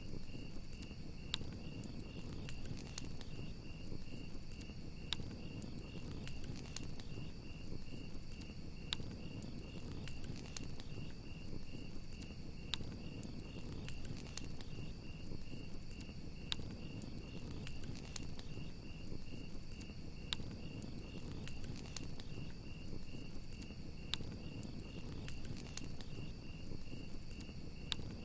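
Crickets chirping in a steady, rapidly pulsed trill over a campfire crackling, with sharp pops scattered every second or so and a low rush from the flames.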